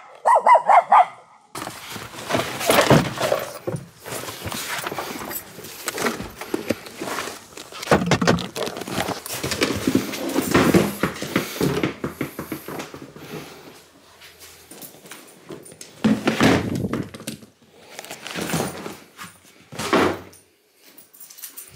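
A dog close to the microphone, whining in a quick high run for about the first second and a half. After that come irregular rustling and knocking noises as it moves about, with a few louder bursts.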